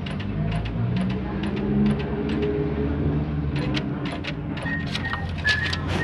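Guadalajara light-rail train running, a steady low electric hum with tones that shift and rise in pitch, under faint regular ticking. A few short high beeps and clicks come near the end.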